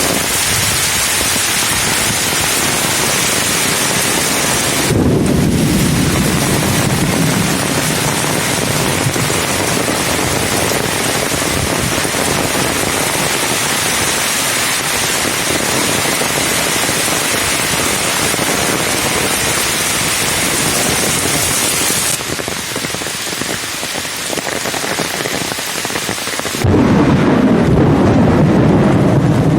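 Heavy rain pouring steadily, with a low rumble of thunder building about five seconds in. Near the end the sound shifts suddenly to a deeper, duller roar with less hiss.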